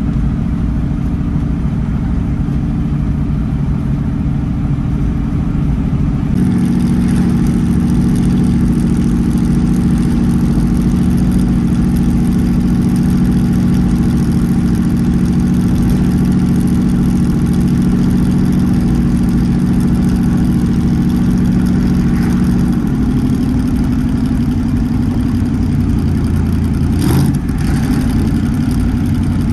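Twin-turbocharged Ford 4.6-litre three-valve V8 running at a steady idle. About six seconds in it grows louder and brighter, it eases slightly at about twenty-three seconds, and a short sharp sound comes near the end.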